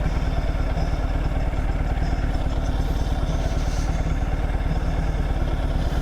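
Motorcycle engine running steadily, with an even low pulse and no revving up or down.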